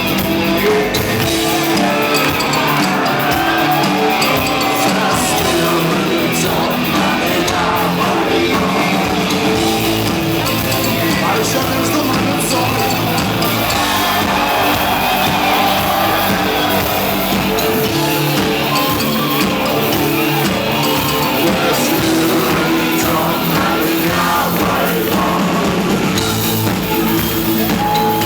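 Rock song played live by a band, with guitars and a singing voice.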